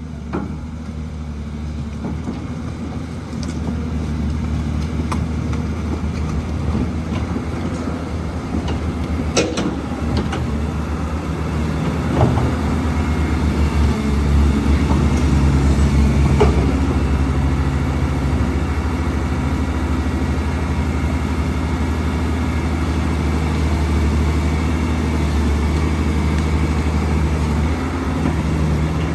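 Caterpillar 320 hydraulic excavator's diesel engine running steadily while it works, growing louder toward the middle, with a few sharp knocks.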